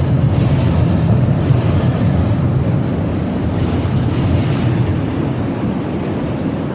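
Steady low rumble of a fireworks display, with a few soft crackling hisses swelling and fading over it and wind buffeting the microphone.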